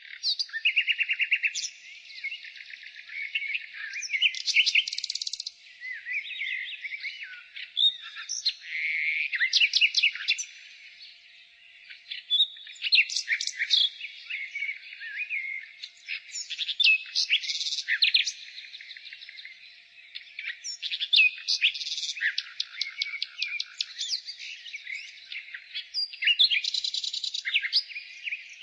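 Nightingale singing: a continuous series of varied, high-pitched phrases, many of them fast runs of repeated notes and trills, with short quieter gaps between phrases.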